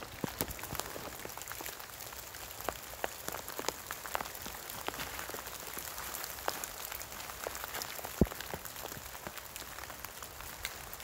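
Rain falling steadily, with scattered drops ticking irregularly close by and one sharper tick about eight seconds in.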